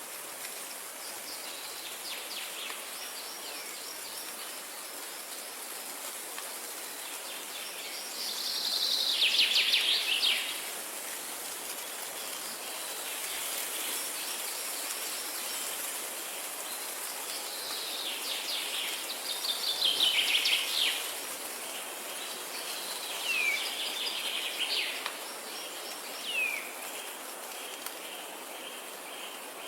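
Songbirds singing in phrases, loudest about a third of the way in and again around two-thirds, with short down-slurred whistled notes near the end, over a steady high background hiss.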